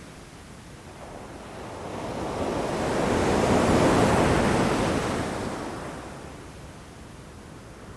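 Ocean waves breaking against rocks: one wave swells up, peaks about halfway through, and washes back down.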